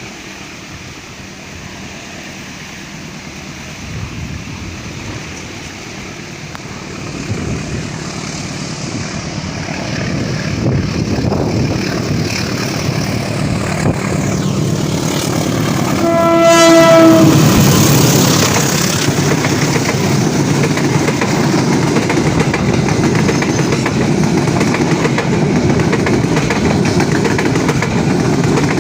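Indonesian passenger train approaching with a rising rumble. Its locomotive sounds one horn blast about a second long just past the middle, then the train runs past with a steady loud rumble and wheel clatter.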